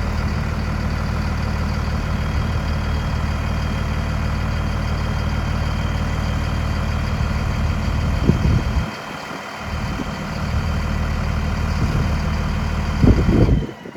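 Freightliner M2 106 dump truck's 6.4-litre Mercedes inline-six diesel idling steadily. The low end drops out briefly about nine seconds in, and the sound swells briefly, then cuts off abruptly near the end.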